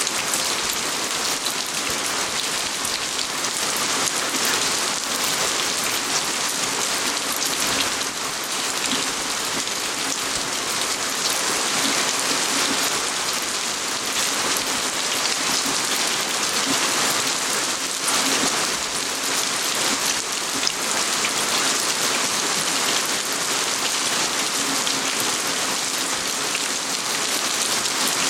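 Steady rain falling on garden surfaces: a dense, even hiss made of many small drop impacts, unchanging throughout.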